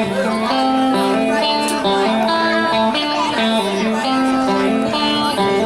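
Guitar music starts abruptly and plays a steady run of plucked and strummed notes: the instrumental opening of the chorus's song.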